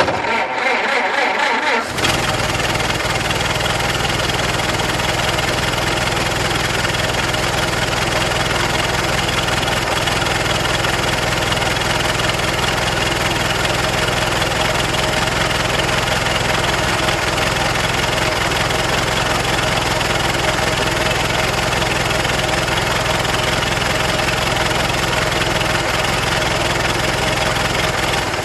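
Old car engine being started: the starter cranks for about two seconds, the engine catches, and it then idles steadily.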